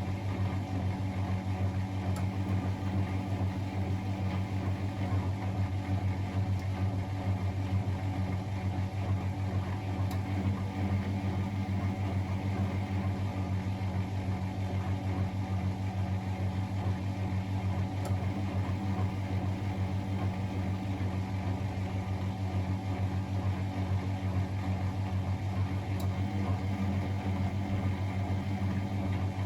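Miele Novotronic W921 washing machine running with a steady, even motor hum, without pauses or changes in pitch.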